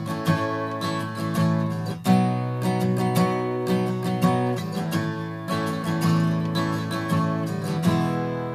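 Acoustic guitar strumming an E–A–B chord progression, each chord left to ring, with changes about two seconds in and twice more around the middle.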